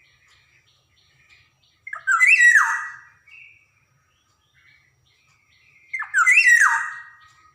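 Black-naped oriole (kepodang) calling: two loud, harsh calls about four seconds apart. Each is a short note followed by a call that slides down in pitch. Faint short chirps fall in the gaps between them.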